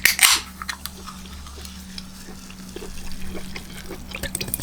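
Carbonated soda (Mountain Dew Zero Sugar) fizzing: a short loud hiss at the start, then faint scattered crackles of bubbles.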